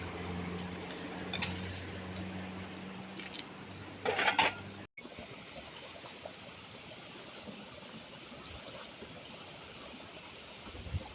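A low steady hum with a few clicks and a short louder rustle, then after an abrupt cut a steady rush of running water, like a stream.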